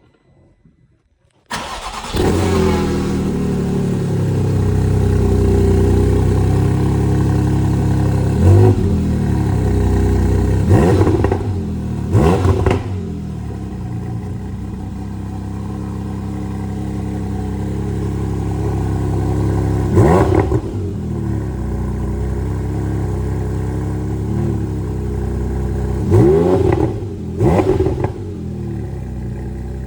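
The Porsche 718 Spyder RS's naturally aspirated flat-six starts about a second and a half in and settles into a steady idle. Its exhaust is then revved in about six short throttle blips, each climbing and dropping straight back.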